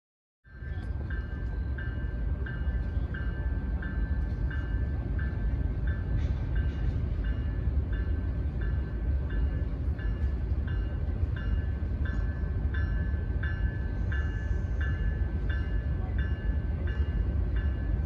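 Train passing with a steady low rumble, while a bell rings evenly about one and a half times a second.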